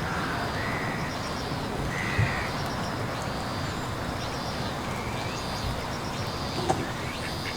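Birds calling with short, high notes every second or so over a steady background hiss, with a couple of sharp clicks.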